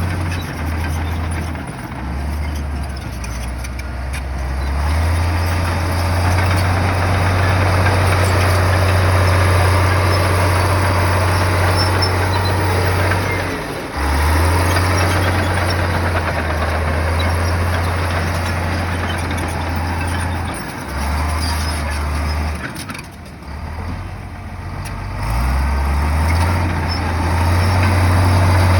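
Komatsu bulldozer's diesel engine working under load, its note stepping up and dropping back several times, with a dense noisy clatter of the machine at work over it.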